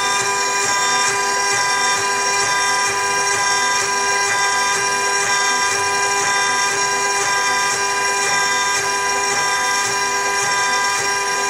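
CNC router running an engraving job: a steady whine of many held tones from the spindle and stepper motors, with faint regular ticks.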